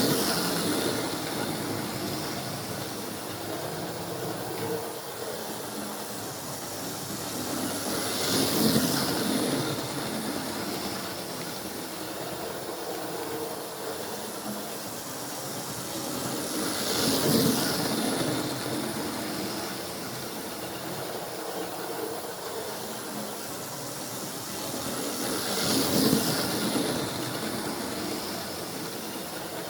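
Model train running round a loop of track with a steady hiss and rumble, swelling louder each time it passes close, about every nine seconds.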